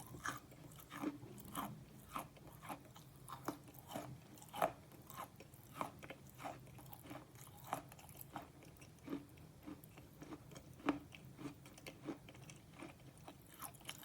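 Slate pencil being bitten and chewed close to the microphone: a run of short, sharp crunches, about two a second, irregularly spaced.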